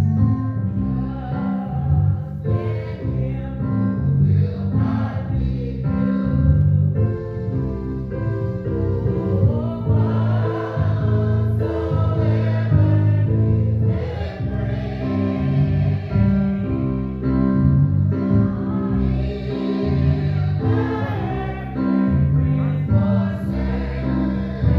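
Church choir singing a gospel hymn with instrumental accompaniment.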